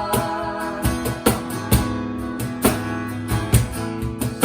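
Live worship band playing an instrumental break: strummed guitar chords over a steady beat, with sharp hits about every half second.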